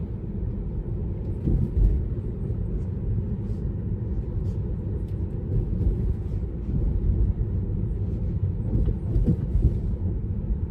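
Steady low rumble of tyre and road noise inside a Tesla electric car's cabin while driving on wet roads, with a few faint ticks.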